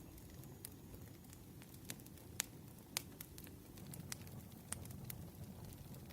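Wood fire crackling softly: a low, steady rumble of burning with sharp, irregular pops.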